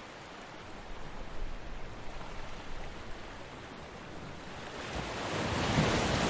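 Ocean waves washing on a beach, a steady hiss of surf with a wave building and breaking louder about five seconds in.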